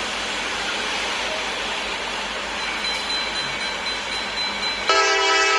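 Steady rushing rumble of a train rolling past, growing slowly louder. About five seconds in, a loud train horn suddenly starts sounding.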